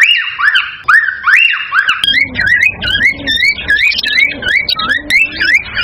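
Cockatiel whistling: a run of repeated rising, up-slurred whistles, about three a second. About two seconds in it changes to a quicker, wavier warbling series of whistles over a low hum.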